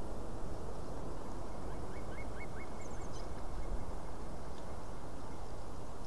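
Distant birds over a steady rushing background: about two seconds in, a bird gives a quick series of about five short whistled notes, and a second later come three very high, thin notes.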